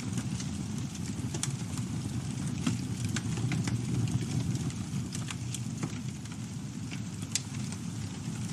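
Wood campfire burning: a steady low rumble with irregular sharp crackles and pops throughout.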